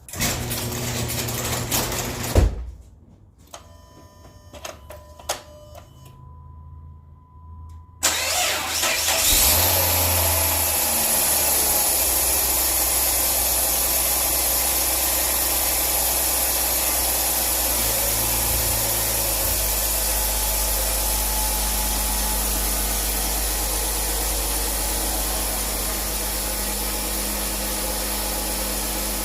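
A sharp knock and a few faint clicks and a thin tone, then about eight seconds in the 2006 Dodge Charger's 3.5-litre V6 starts, flares briefly and settles into a steady idle.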